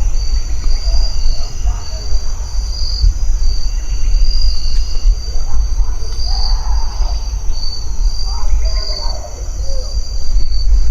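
Insects chirping in a steady, evenly pulsing high trill, over a low rumble of wind on the microphone. Faint, distant voice-like sounds rise and fall twice in the second half.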